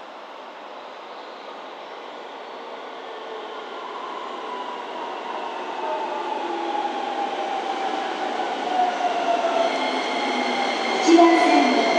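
Electric commuter train pulling into the station and braking. It grows steadily louder as it approaches, and its motor whine falls in pitch as it slows, with squeals about eleven seconds in.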